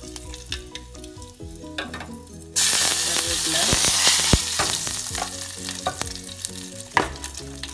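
Mustard-seed tempering sizzling in hot oil in a steel pot. About two and a half seconds in it turns suddenly loud and hissing, as curry leaves hit the oil, with scattered pops and clicks after.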